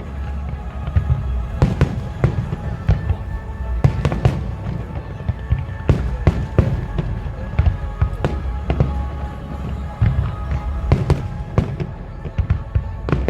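Fireworks bursting in many sharp bangs at irregular intervals over a continuous low rumble, with music playing underneath.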